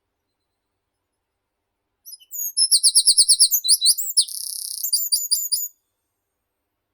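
A songbird sings one song phrase about two seconds in, lasting about three and a half seconds: a run of quick repeated high notes, then a short buzzy trill, then a few quick notes at the end.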